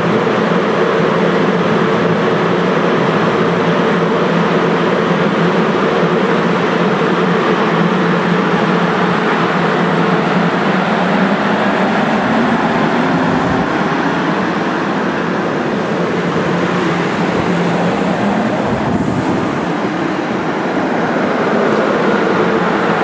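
Train running past at close range: a loud, steady rumble of wheels and machinery that eases slightly near the end.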